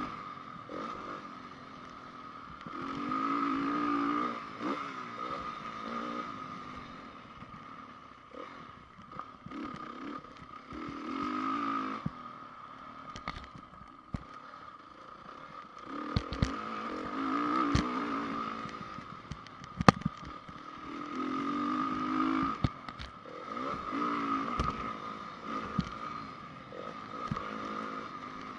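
2010 Honda CRF 450 motocross bike's single-cylinder four-stroke engine revving up and easing off again and again, as when riding laps of a dirt track. Sharp knocks and clatter are heard throughout, the loudest crack about 20 seconds in.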